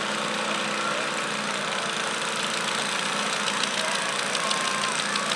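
Garden tractor engine running steadily, with a rapid rattling crackle building from about halfway through.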